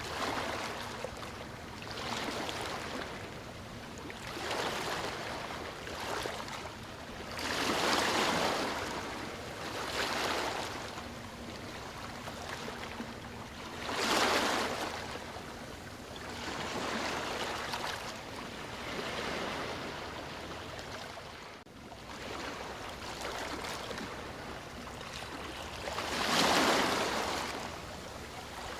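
Sea waves breaking and washing on a shore: a hiss that swells and fades every few seconds, with three bigger waves, one about a quarter of the way in, one about halfway and one near the end.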